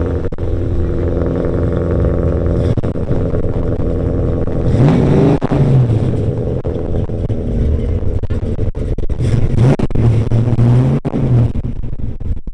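Car engine running with a steady low note, revved up briefly about halfway through and again a little later.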